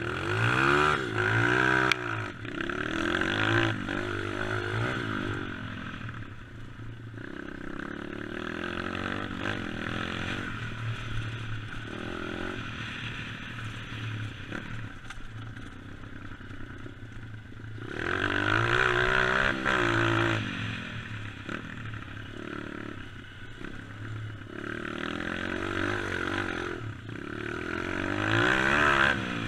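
Dirt bike engine being ridden, its pitch climbing and falling again and again as the throttle opens and closes, with loud surges near the start, about two-thirds through and near the end. A rattling clatter from the ride runs underneath.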